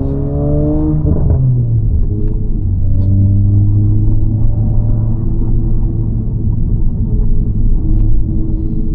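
Honda Civic FL5 Type R's turbocharged 2.0-litre four-cylinder heard from inside the cabin through an HKS Legamax exhaust with aftermarket downpipe. The engine note rises under acceleration, falls with a gear change about a second in, then climbs slowly and settles into a steady low drone.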